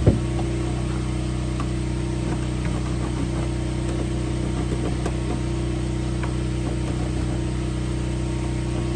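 An engine running steadily at idle, a constant low hum. A sharp knock at the very start and a few light taps a few seconds in come from handwork.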